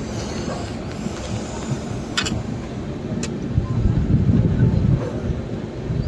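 Passenger express train running along the track: a steady low rumble with two sharp clicks, a little over two seconds and about three seconds in.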